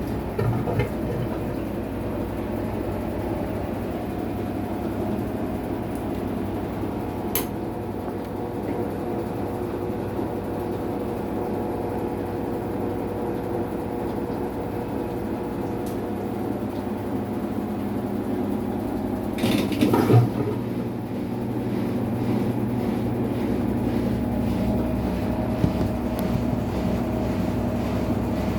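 Maytag MVWX655DW1 top-load washing machine running its tub clean cycle: a steady motor hum with a few held tones. A single click sounds about seven seconds in and a short rattle about twenty seconds in, after which the hum gets slightly louder.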